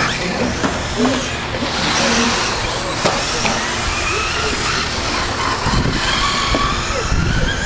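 Several radio-controlled stadium trucks racing, their motors whining with pitches that rise and fall as they speed up and slow down, with a few short knocks over a steady background of tyre and crowd noise.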